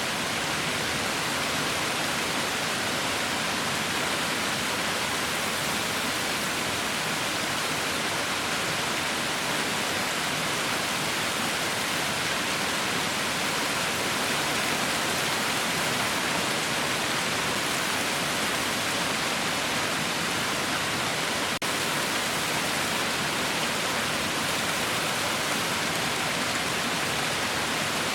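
Heavy rain falling in a steady, even hiss with no let-up. A faint click comes about three-quarters of the way through.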